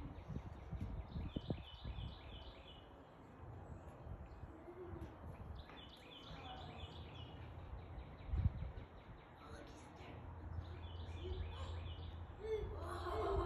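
Outdoor background with a small bird singing short runs of quick, repeated high chirps three times over a steady low rumble.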